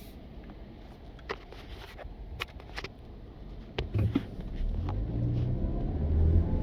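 A car pulling away and picking up speed, its engine and road noise growing louder from about four seconds in, after a few scattered sharp clicks.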